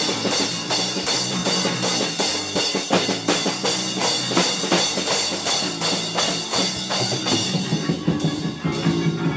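Rock music driven by a drum kit beating a fast, steady rhythm over sustained instrument tones.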